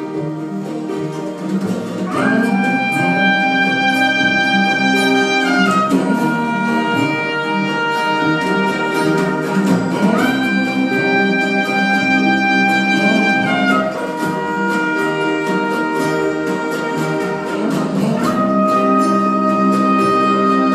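Live band playing an instrumental passage between sung lines of the song: long held melody notes that change about every four seconds over a steady accompaniment.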